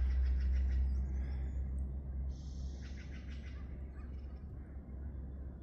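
Birds calling and chirping, with one buzzy call of about a second starting about two seconds in, over a low rumble that fades after the first two seconds.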